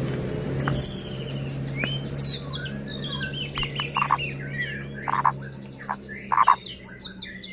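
White-rumped shama singing a fast, varied song of whistled notes and pitch glides mixed with short harsh notes and sharp clicks, over a low steady hum.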